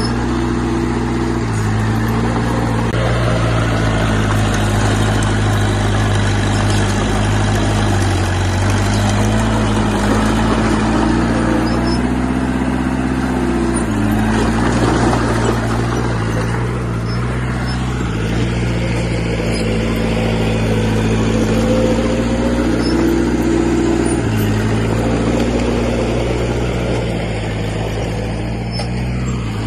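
Diesel engine of heavy earthmoving equipment running steadily, its pitch stepping up and down several times as the load and revs change, with a rougher, noisier stretch about halfway through.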